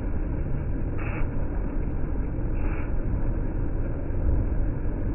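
KRL electric commuter train moving along the platform: a steady low rumble, with three short, higher hissing sounds spaced a second or more apart.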